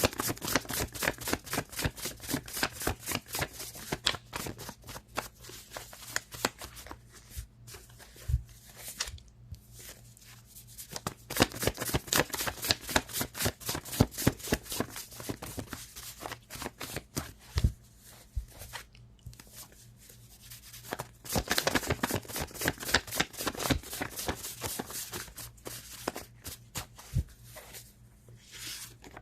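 A deck of tarot cards being shuffled by hand: fast runs of crisp card flicks that stop and start again several times, with a couple of dull taps.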